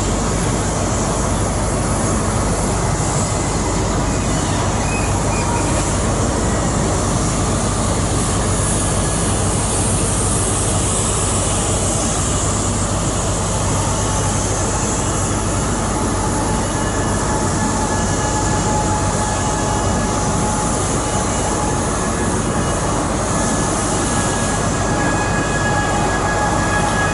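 A train running steadily at a station platform, a constant rumble and hiss, with faint high-pitched wheel squeal coming in from about halfway through.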